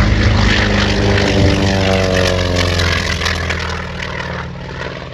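Propeller-driven light aircraft flying past, its engine note sliding down in pitch as it goes by and then fading away.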